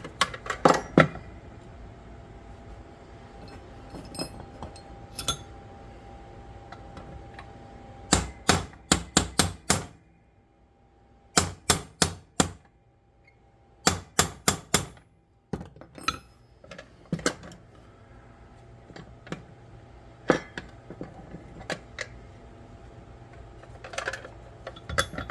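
Hammer blows on a punch against the metal body of a spring scale, in quick bursts of four to six sharp, ringing strikes with single knocks between. The part being driven is a solid bar, not a pin, so it does not come free.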